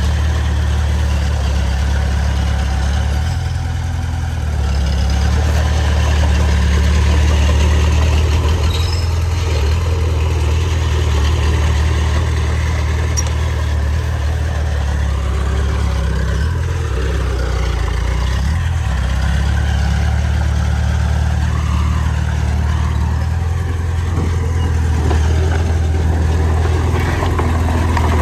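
Bulldozer's heavy diesel engine running steadily while working soil, its low drone shifting slightly with load a few times.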